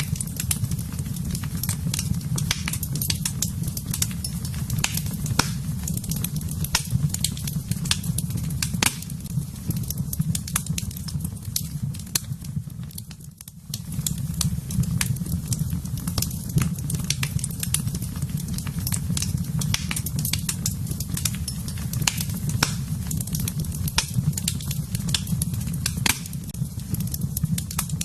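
Wood fire in a fireplace crackling and popping with many sharp snaps over a steady low rumble of flames. The sound dips briefly about halfway through.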